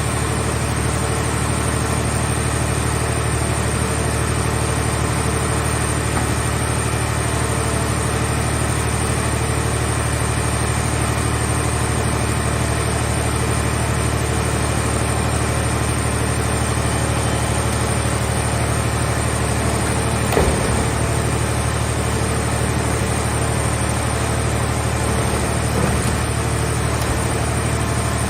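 Engine of a mobile scrap-car shell baler running steadily at constant speed, with a brief knock about twenty seconds in and another a few seconds later.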